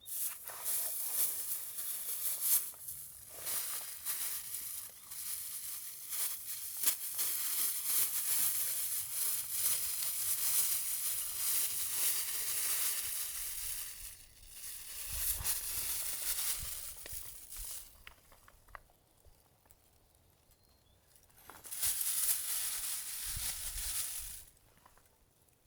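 Close crinkling and rustling of something being handled, in three spells: a long one, then two shorter ones with quiet gaps between.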